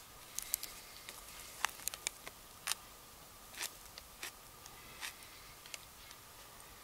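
Close-up chewing of a mouthful of sandwich: irregular wet mouth clicks and lip smacks, a dozen or so scattered through.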